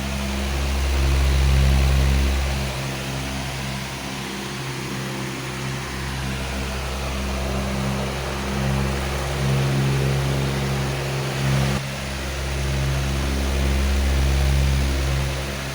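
A powerful fan running steadily: a broad rush of moving air over a low motor hum that swells and fades every few seconds.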